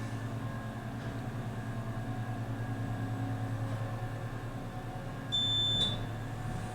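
Steady low hum of an elevator, with a single high electronic beep about five seconds in, lasting about half a second.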